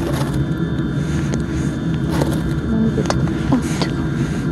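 Steady low engine-like hum with a few faint clicks over it.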